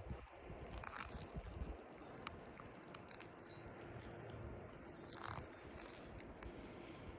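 Faint wind rumble on the microphone, with two soft crunches in snow, about a second in and about five seconds in.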